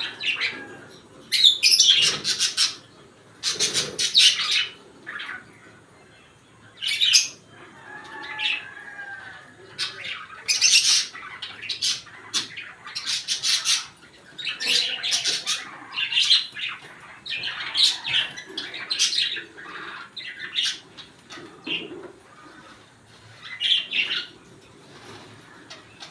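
African lovebirds chirping and squawking: short, sharp, high-pitched calls coming in irregular bursts every second or two.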